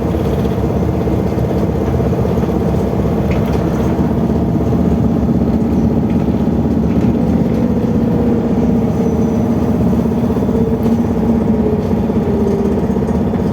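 Cabin of a BKM 32102 trolleybus under way: a steady rumble of tyres and road with the hum and whine of the electric traction drive. The whine shifts in pitch in the second half as the speed changes.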